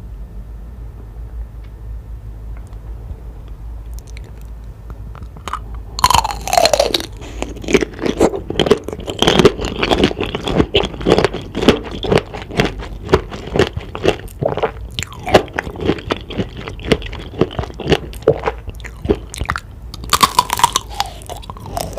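Close-up bite into candied fruit on a tanghulu skewer about six seconds in, the hard sugar shell cracking, followed by rapid crunching and chewing; a second bite near the end. Before the first bite only a low steady hum.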